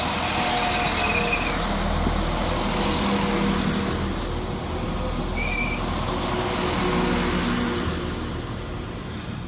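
Northern Class 195 Civity diesel multiple unit running past along the platform as it arrives, its underfloor diesel engine humming over the steady noise of its wheels on the rails. There is a brief high squeal about halfway through, and the sound fades over the last couple of seconds as the train moves away.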